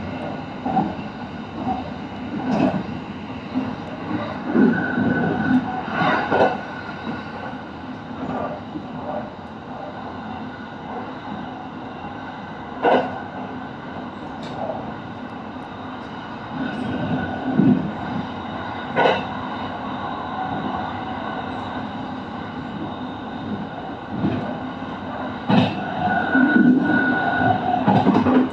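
Kintetsu electric train running on the line, heard from on board: a steady rumble with a faint motor hum and occasional sharp knocks as the wheels cross rail joints.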